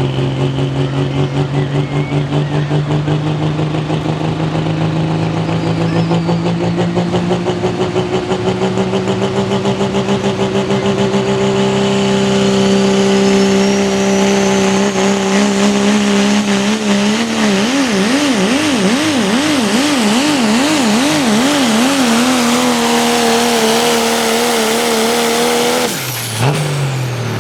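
Turbocharged diesel 4x4 pulling truck at full throttle, dragging the pulling sled, its engine pitch slowly climbing. From about halfway, the pitch wavers quickly up and down. Near the end, the engine drops off suddenly as the pull ends.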